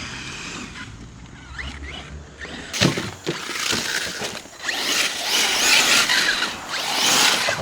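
Arrma Mojave radio-controlled trucks driving hard over the course, a high, noisy mechanical sound from their motors and tyres. It gets much louder about three seconds in, with a few sharp knocks at that point.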